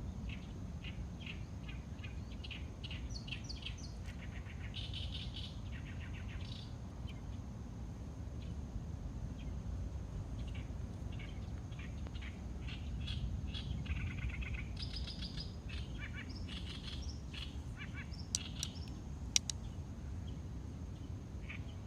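Several small birds chirping and trilling on and off, over a steady low rumble and a thin, steady high-pitched tone. A couple of sharp clicks come near the end.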